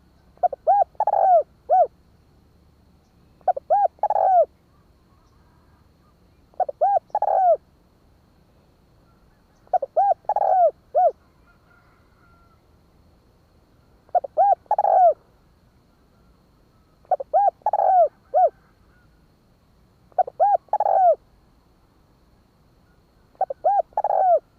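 Spotted dove cooing: eight phrases, about one every three seconds, each a quick run of short coos around a longer, louder coo.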